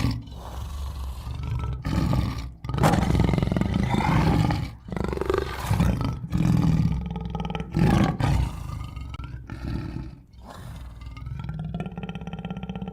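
Tiger roaring repeatedly: several loud, rough roars a second or two apart, then quieter growling near the end.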